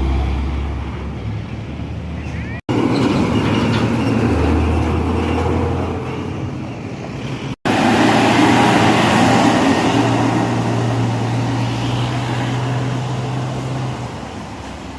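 Trucks' diesel engines running as they pass through a road junction, a steady low engine hum over road noise. The sound breaks off abruptly twice for an instant, once a few seconds in and once about halfway.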